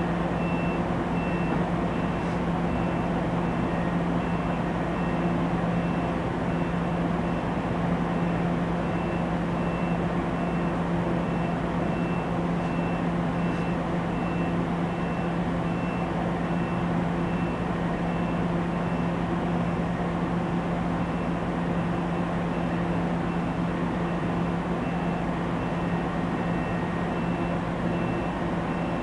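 NJ Transit bi-level commuter train standing at the platform: a steady low hum from its onboard equipment, with a short high beep repeating about once a second.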